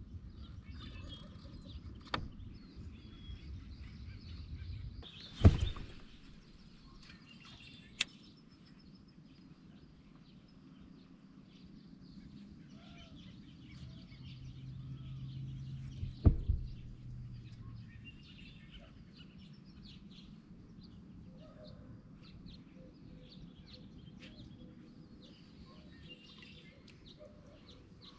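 Small birds chirping and calling over low outdoor background noise, with a few sharp knocks: the loudest about five seconds in and another pair about sixteen seconds in.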